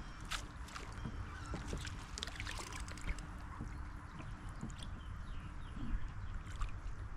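Water lapping and sloshing against a kayak hull, with scattered small clicks and knocks, mostly in the first half and again near the end.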